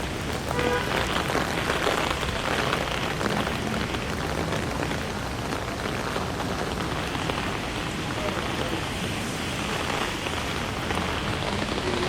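Steady rain falling and splashing on a wet street, an even hiss throughout.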